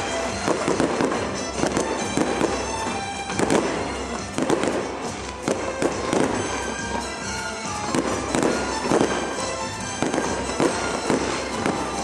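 Aerial fireworks bursting in quick succession, a dense run of bangs and crackles, with music playing underneath.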